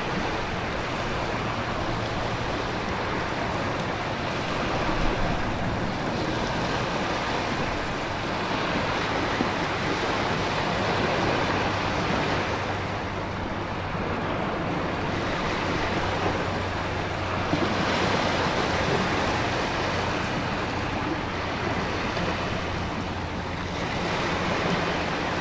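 Storm ambience of heavy rain and ocean surf with wind: a dense, steady rush that swells and eases every several seconds.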